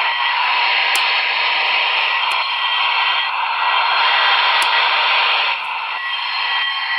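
Onboard sound system of a Broadway Limited Imports model steam locomotive playing a steady steam hiss through its small speaker, with a few sharp clicks.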